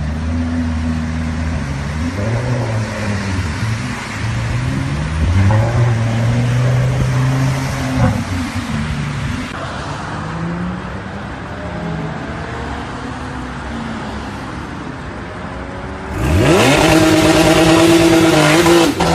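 Sports car engine running and revving, its pitch rising and falling. About sixteen seconds in it turns much louder in a hard rev, the pitch climbing fast.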